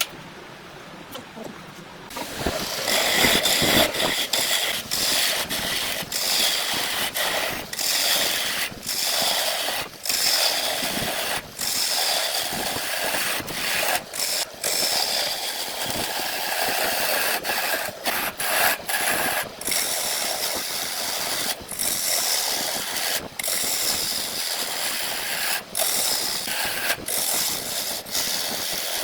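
Power tool running on wood, starting about two seconds in, with many sudden brief breaks in the sound.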